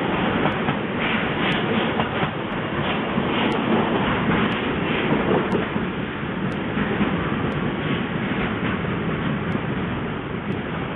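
Train wagons rolling past on departure, a steady rumble with wheels clattering over the track and a few sharp clicks in the first seconds. The sound eases slightly near the end.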